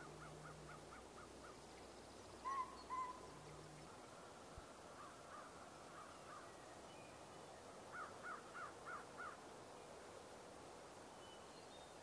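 Birds calling faintly: a quick series of about six short notes, two louder, arching call notes about two and a half seconds in, and another quick series of about six notes near the end.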